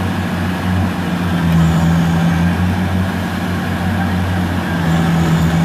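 Kubota rice combine harvester's diesel engine running steadily at a constant speed, a loud low hum.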